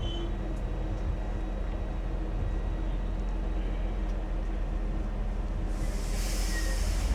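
Parking lot tram running as it pulls away after dispatch: a steady low drive hum that grows slightly louder. A short burst of hiss comes near the end.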